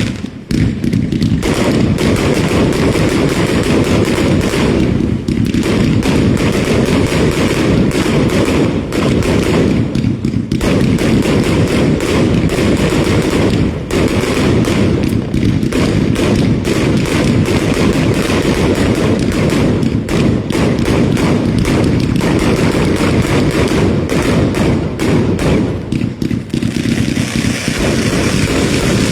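Fireworks going off in a dense, continuous barrage of rapid bangs and crackles, with heavy low thuds.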